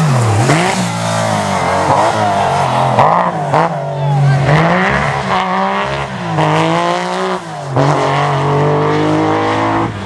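Rally car engine revving, its pitch rising and falling again and again through gear changes and throttle lifts, with a brief drop in level about three-quarters of the way through.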